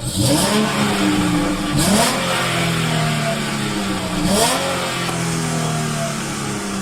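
Dodge Charger engine revved three times, each blip rising sharply in pitch and then falling back to a steady run. With new spark plugs fitted it runs without the cylinder 6 misfire it had.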